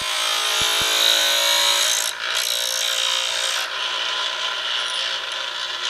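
High-speed steel lathe threading tool being ground against a pedestal grinder wheel in a rattling fixture: a steady, harsh grinding. It breaks off briefly about two seconds in, then goes on, a little lighter for the last couple of seconds.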